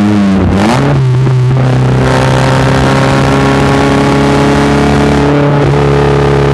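Exhaust of a Nissan March K12 through a Karakuri House aftermarket muffler, recorded outside the car: the engine note dips briefly, then climbs to a higher steady speed that is held, with a slight rise near the end.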